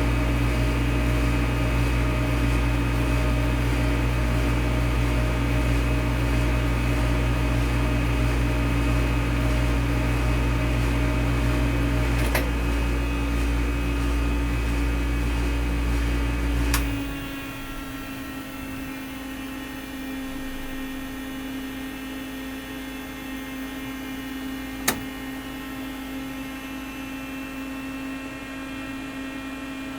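Film projector running with a steady motor hum and whir. About seventeen seconds in the sound drops to a quieter, thinner hum, and a single sharp click stands out near the end.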